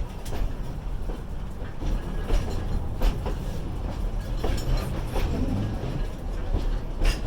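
Passenger train running on the rails, heard from on board: a steady low rumble with irregular sharp clacks and knocks from the wheels and car.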